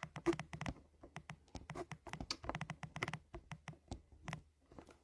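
Faint, irregular small taps and clicks, close to the microphone: handling noise.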